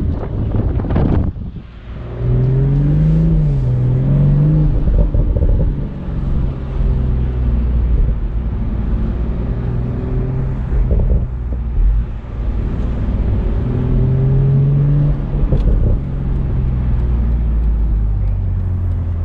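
BMW Z4 M40i's turbocharged 3.0-litre inline-six running under way with a steady low rumble. Its note climbs in pitch and drops back twice as it accelerates. A brief loud surge comes about a second in.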